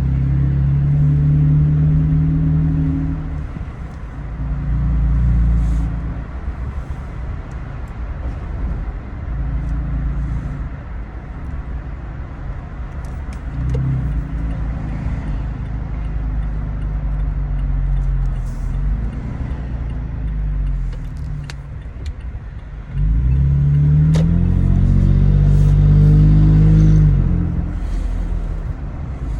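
2019 Toyota Tacoma TRD Pro's 3.5-litre V6 exhaust, fitted with an MBRP 3-inch cat-back, heard while driving: a steady drone that swells and settles with the throttle. About three-quarters of the way through it rises in pitch under harder acceleration, then eases off near the end.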